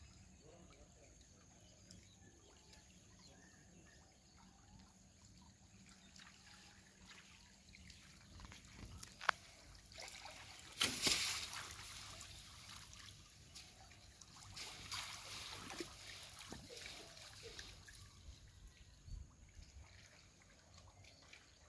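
Faint trickling and sloshing of river water, with a short sharp click and then louder splashy stretches around the middle.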